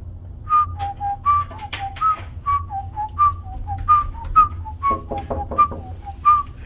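A person whistling a quick tune of about fifteen short notes that hop mostly between two pitches, over a steady low hum.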